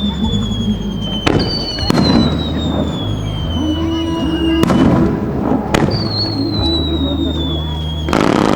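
Fireworks going off: about five sharp bangs, with long whistling shells whose pitch slowly falls as each one climbs.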